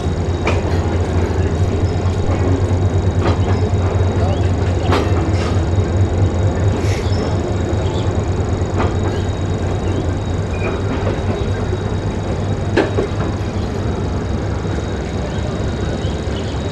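Passenger train running on the rails: a steady low rumble with scattered sharp clanks, typical of wheels passing over rail joints.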